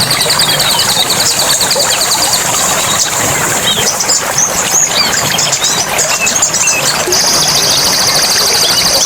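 Forest ambience: an insect's fast pulsing buzz, cicada-like, drops out about two and a half seconds in and comes back louder near the end. In between, birds give short chirps, and a steady rushing background runs beneath it all.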